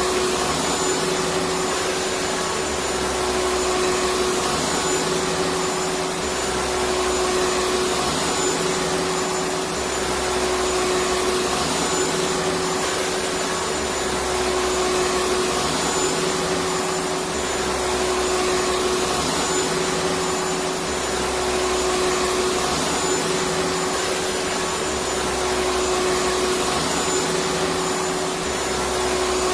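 Electric vacuum cleaner running steadily: an even rushing whoosh over a constant motor whine. Underneath, a low hum swells and fades about every three and a half seconds.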